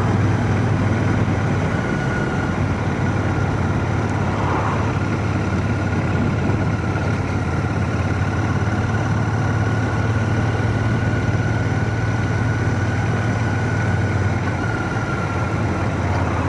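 Royal Enfield Shotgun 650's parallel-twin engine running steadily on the move, with wind and road noise, heard through a microphone inside a full-face helmet with the visor open.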